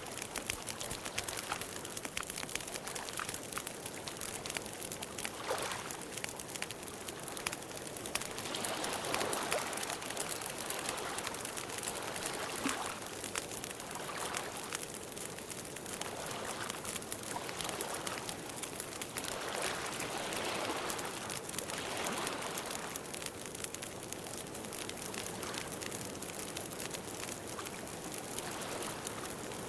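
Campfire crackling, a dense stream of irregular pops and snaps over a steady hiss, with soft swells of rushing noise every few seconds.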